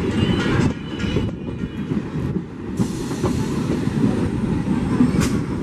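Electric multiple unit (EMU) suburban local train passing close by, its coaches rumbling and clattering steadily over the rails, with a sharp click about five seconds in.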